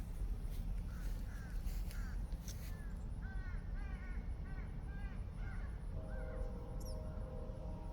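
A bird calling over and over, about a dozen short arched notes in quick succession, over a steady low rumble. Near the end a steady held tone of several pitches comes in and carries on.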